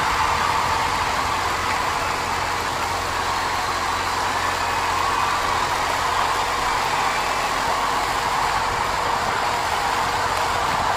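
Electric RC helicopter (Align T-Rex 450) heard from its onboard camera in flight: a steady motor and rotor whine over rushing air, its pitch drifting slightly up and down.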